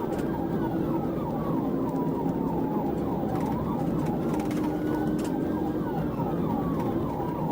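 Police car sirens: a slow wail sinking in pitch together with a rapid, repeating yelp, over a steady rumble of engine and road noise.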